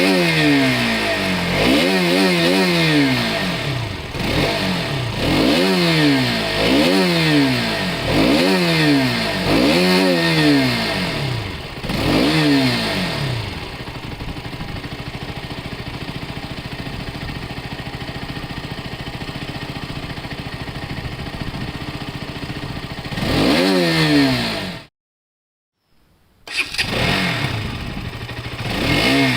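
Motorcycle engine revved in repeated quick blips, about one every second and a half, then settling to a steady idle. It revs once more and cuts off abruptly; after a short silence another motorcycle engine recording comes in and revs again near the end.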